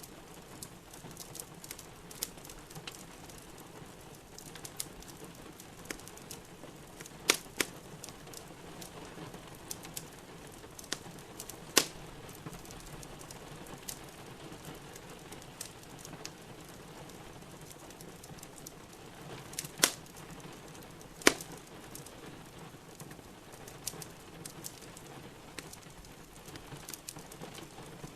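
Steady rain with a wood fire crackling in a fireplace: a run of small clicks and a few sharp, louder pops, four of them standing out.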